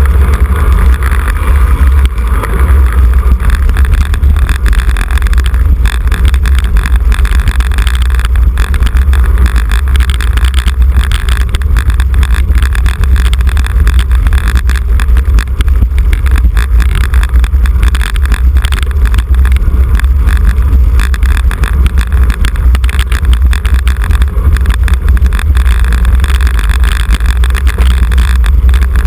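Heavy wind buffeting on a bicycle-mounted camera's microphone while riding: a steady, loud low rumble that does not let up.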